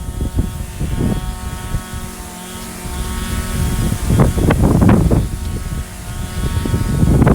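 Echo SRM-2620 string trimmer's two-stroke engine running at a steady idle, its tone held level, with loud bursts of low rumble from wind buffeting the microphone about four seconds in and again near the end.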